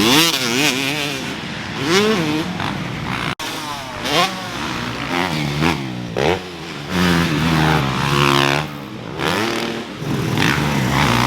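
Several motocross dirt bikes running on a track, their engine pitch rising and falling as the riders open and close the throttle, with more than one bike heard at once. The sound drops out for an instant about a third of the way in.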